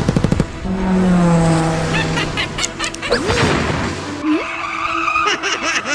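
Car engine running and revving, with tyres skidding and squealing.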